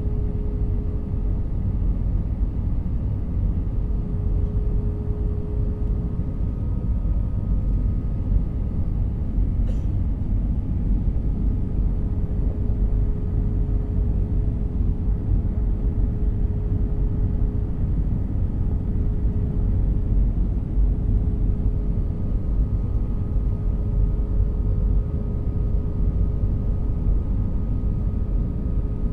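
Jet airliner cabin noise: a steady low rumble from the engines and airframe, with a faint steady hum that fades out a few seconds in and returns near the end. A single brief click about ten seconds in.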